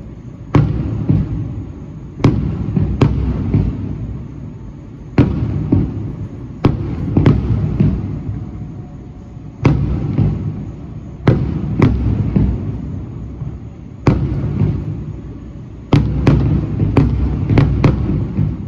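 Fireworks shells bursting one after another: more than a dozen sharp bangs at uneven intervals, each followed by a low rolling rumble, with a quick run of bursts near the end.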